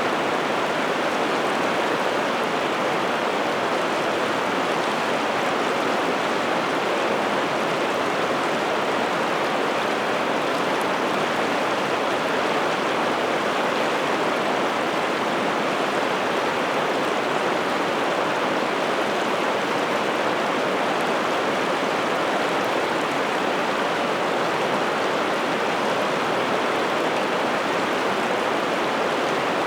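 Water of the Piteälven river rushing steadily, an even noise without breaks or changes.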